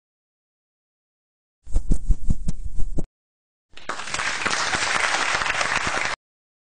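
A rapid string of sharp firecracker bangs lasting about a second and a half. After a short pause comes about two and a half seconds of applause. Both cut off abruptly.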